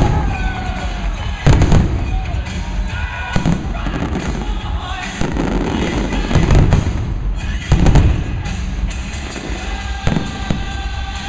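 Aerial fireworks shells bursting in a string of booms a second or two apart, the loudest about a second and a half in, with music playing underneath.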